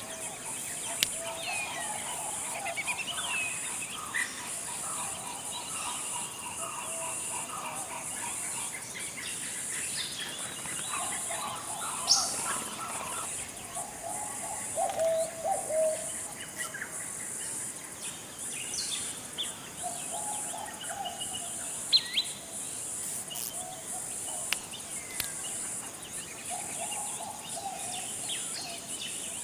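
Tropical forest ambience: several birds calling over a steady high-pitched insect buzz. There are low warbling phrases, chirps, and now and then a short, sharp high whistle.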